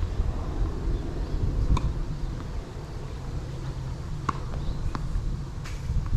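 Wind buffeting the microphone, with about four sharp knocks of a tennis ball struck by rackets and bouncing on the hard court, a couple of seconds apart.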